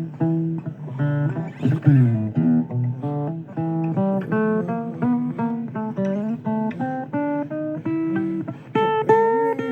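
Blues guitar playing: a run of picked single notes with some bent notes, no vocals.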